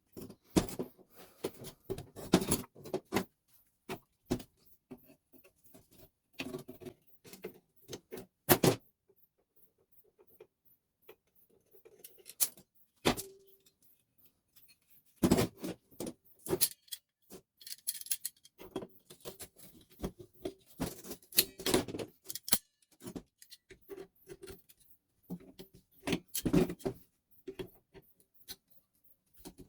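Irregular clicks, taps and metallic clinks of hand tools and small metal and plastic parts as a Telemecanique fuse switch is taken apart for scrap. There is a quieter spell around the middle, then busier clatter.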